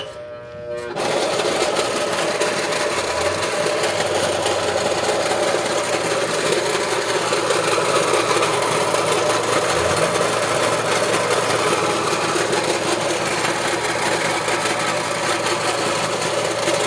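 Invacare Platinum 10 oxygen concentrator's compressor spinning up, rising in pitch over the first second, then running with a loud, steady, very unpleasant noise. The technician puts the noise down to worn compressor bearings.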